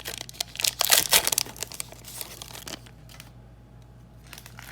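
Plastic foil wrapper of a trading-card pack being torn open and crinkled. It is loudest about a second in and dies away after about three seconds.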